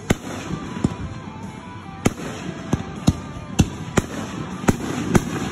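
Aerial firework shells bursting: a string of about nine sharp bangs at uneven intervals, one every half second or so.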